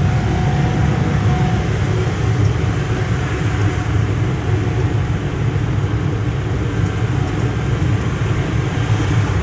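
Steady low rumble of a tourist mini train's engine and wheels as it drives along, heard from aboard.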